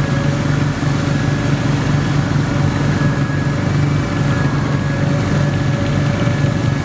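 Small garden tractor engine running at a steady speed.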